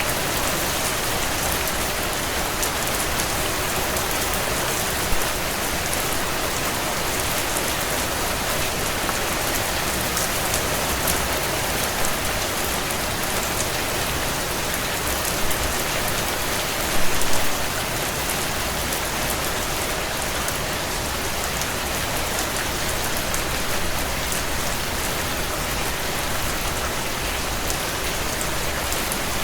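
Heavy rain beating steadily on window panes, with a few sharp crackles and pops from a wood fire in a stone fireplace, a small cluster of them about two-thirds of the way through.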